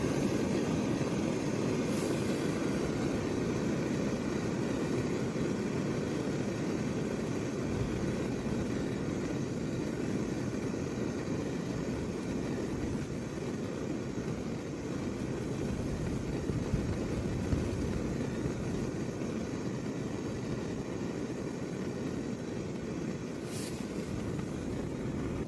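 Gas camping stove burner running steadily, its canister low on pressure and just shaken to revive the flame.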